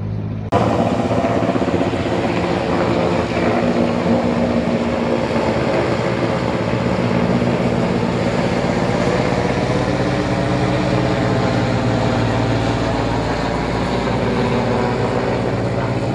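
Helicopter flying close by, its rotor and turbine making a loud, steady drone that starts suddenly about half a second in and shifts slightly in pitch.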